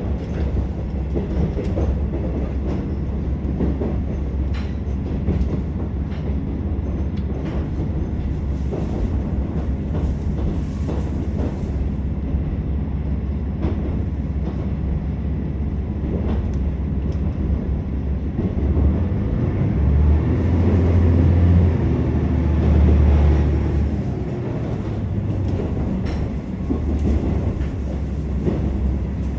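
Inside a KiHa 47 diesel railcar under way: the diesel engine drones steadily under the floor, with wheel and rail noise and scattered clicks over the rail joints. The engine drone swells for a few seconds past the middle, then settles again.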